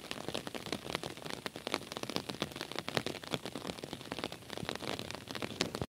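Steady rain falling on wet sandy ground and puddles, a dense spread of many separate drop hits. It cuts off suddenly at the very end.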